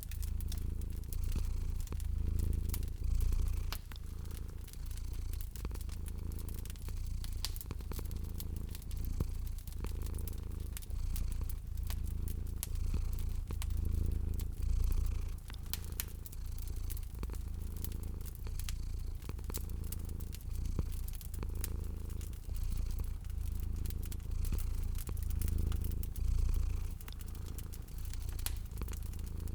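A cat purring, a low steady rumble that swells and eases with each breath, over the pops and snaps of a crackling wood fire.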